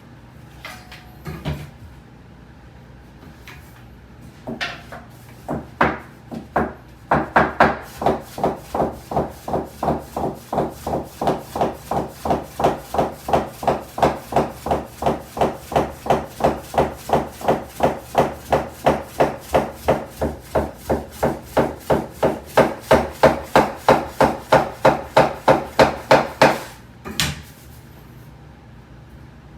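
Soba-kiri knife chopping through folded soba dough onto a wooden board, a steady run of knocks at about three a second that starts about seven seconds in after a few scattered knocks and stops near the end.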